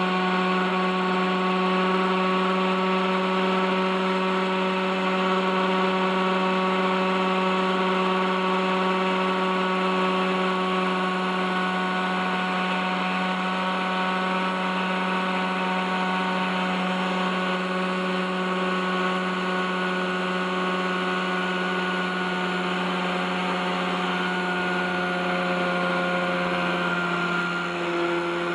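OS 61SF two-stroke glow engine of an RC helicopter running steadily at hover, a constant high engine note that shifts slightly in pitch near the end. The engine had gone over thirty years without maintenance and its bearings are rusted, which the owner says adds resistance.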